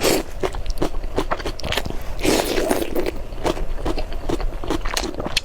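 Close-miked eating of spicy noodles: chewing with many small wet clicks and smacks, and a denser stretch of mouth noise about two seconds in.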